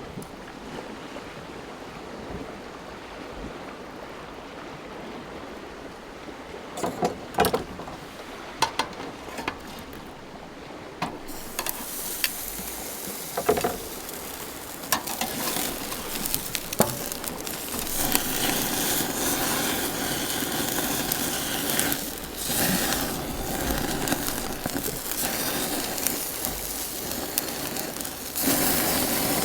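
Food sizzling on a grill, with a few sharp clicks and knocks of cooking utensils. The sizzle turns louder and hissier about twelve seconds in and again around eighteen seconds.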